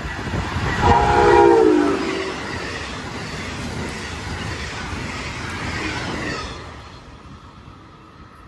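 Amtrak passenger train passing close by, sounding a short horn chord about a second in whose pitch drops as it goes by. The rumble of the train runs on, then fades away near the end.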